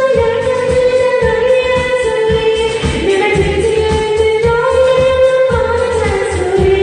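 A person singing a sad ballad into a karaoke microphone over the karaoke machine's backing track, holding long notes that step slowly up and down.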